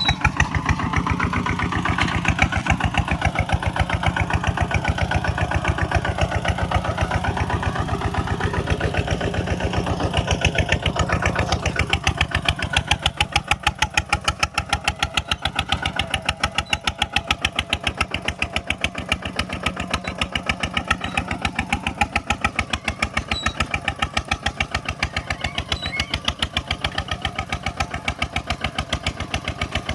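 Kubota single-cylinder diesel engine running with a rapid, even chugging beat. Over the first twelve seconds or so a wavering higher tone rides on top, then fades out.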